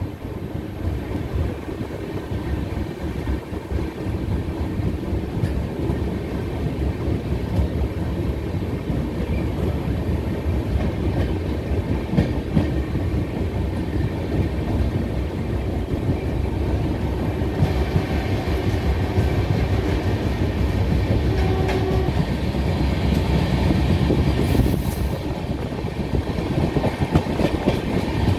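Passenger train running along the track, heard from inside the moving carriage: a steady low rumble with the wheels clicking over the rail joints.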